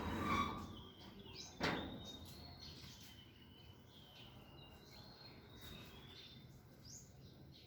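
Small birds chirping and giving short, thin whistled calls, with a sharp knock about a second and a half in.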